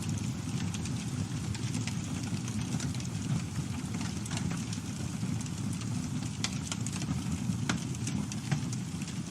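Campfire burning: a steady low rumble of flames with frequent sharp crackles and pops from the burning wood, one louder pop near the end.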